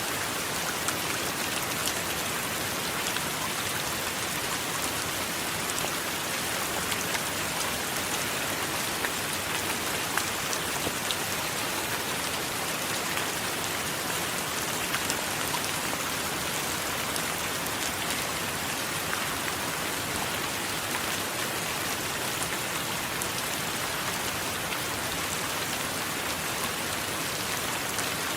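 Steady rain falling: an even hiss with many scattered sharp ticks of single drops striking.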